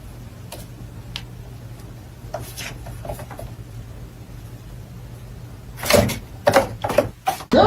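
A low steady hum with faint scattered clicks, then a quick run of loud knocks and bumps about six seconds in.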